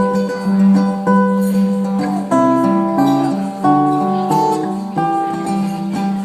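Solo acoustic guitar fingerpicking an instrumental passage: single plucked notes in a steady, even pattern over a low note that rings on underneath.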